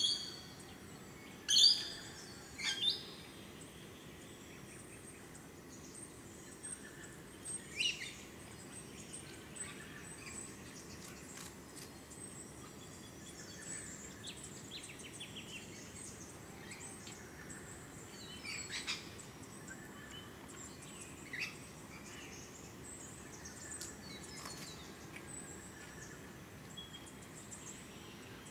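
Wild birds calling in short, sharp chirps, the loudest bunched in the first three seconds and the rest scattered through, over a steady low background hiss.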